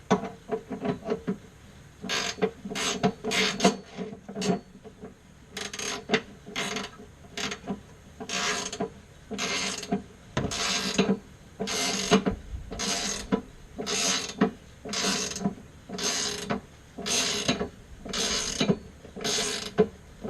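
Hand ratchet wrench being worked in short strokes, each back-swing a quick burst of pawl clicks. The strokes come unevenly at first, then after a brief pause settle into a steady rhythm of about one and a half strokes a second.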